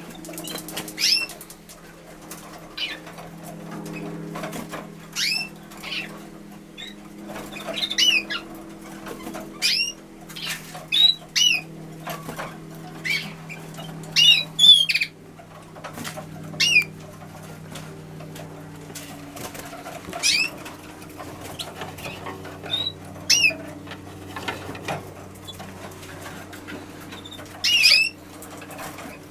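Canaries in breeding cages giving short, sharp chirping calls at irregular intervals, with wing flutters among them, over a steady low hum.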